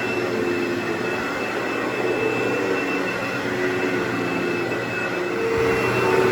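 Carpet cleaning machine running: a steady motor and suction drone with a thin high tone over it.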